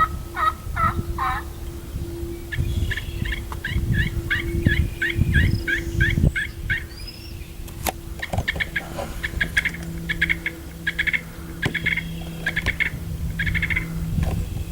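Wild turkey calling: a few falling notes, then two long runs of quick, evenly spaced yelping notes, over a low rumbling noise.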